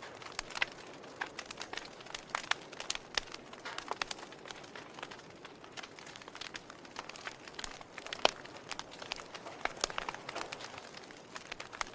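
Fire crackling: irregular sharp pops and snaps over a soft hiss, the sharpest pop about eight seconds in.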